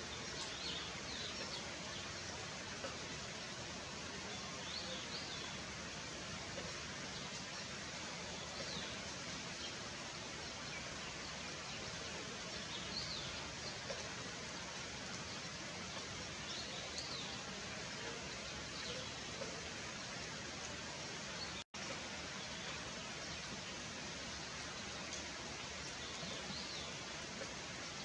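Steady rain falling, an even hiss, with faint bird chirps now and then. The sound cuts out for an instant about two-thirds of the way through.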